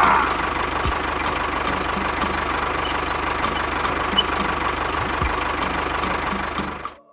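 Small engine running steadily at a fast, even beat, cutting off abruptly near the end.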